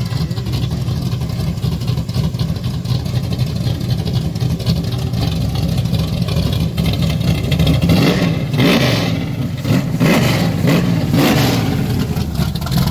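A car engine running steadily, growing louder and rougher in the second half.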